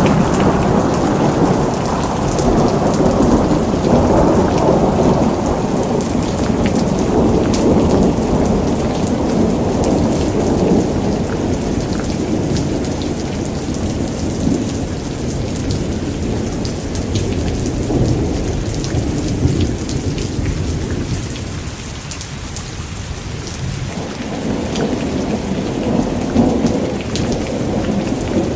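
Steady rain with rolling thunder. The rumble is heavy at first, dies down about three-quarters of the way through, then builds again near the end.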